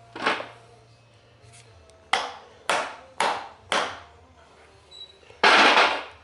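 Hammer blows on a steel shaft, driving bread into the crankshaft's pilot bore to force the old pilot bearing out hydraulically: five separate strikes, then a longer, louder burst of noise near the end.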